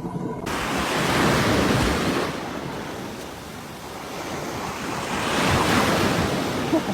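Ocean surf: waves washing in with a steady rushing noise that swells twice.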